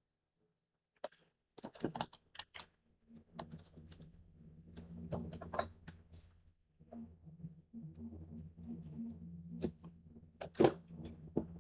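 Handling of a paper-covered cardboard craft box: irregular clicks, taps and rustles as it is opened and worked by hand, with a low steady hum underneath from about three seconds in.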